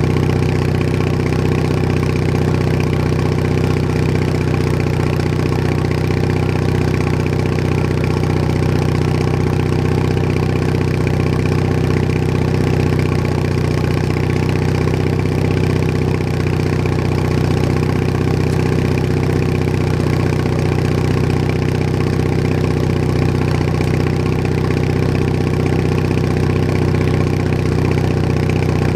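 Bolens HT20 garden tractor's engine running steadily at a constant speed, with no change in pitch.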